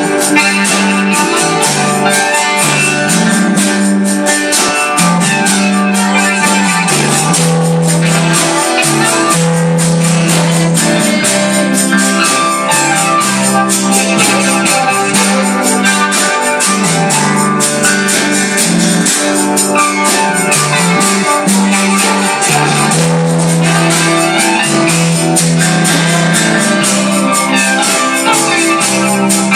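Live gospel band music: an instrumental passage with sustained keyboard chords and a steady, dense beat.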